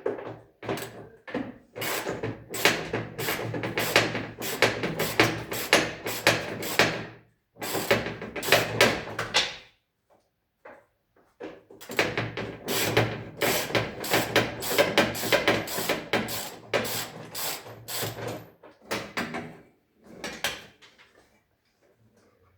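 Rapid, repeated knocking and clattering in two spells of about ten and eight seconds, with a short pause between them.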